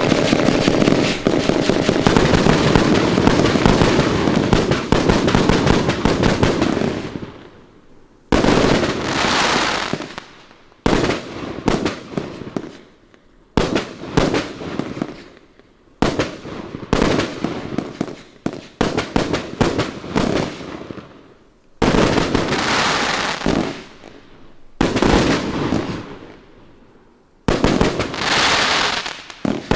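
A consumer 1.4G compound fireworks cake firing its 108 shots: a dense, rapid barrage for about the first seven seconds, then a run of separate volleys of shots with short pauses between them.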